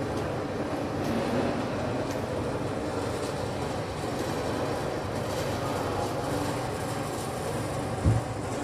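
Steady low rumbling background noise, with one short, loud low thump about eight seconds in.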